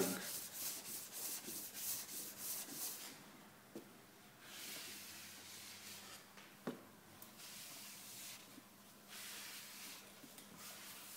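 Hand wet sanding of polyester body filler with sandpaper, rubbed back and forth without much pressure. Quick strokes, about four a second, for the first three seconds, then slower, longer strokes, with two light knocks.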